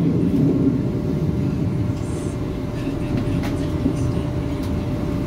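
Running noise inside the carriage of a CAF-built Northern Ireland Railways diesel multiple unit underway: a steady low rumble with a faint steady whine above it.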